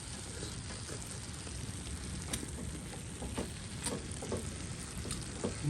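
Potatoes, mushrooms and steak sizzling steadily in a pan on a stove, with a few scattered sharp clicks.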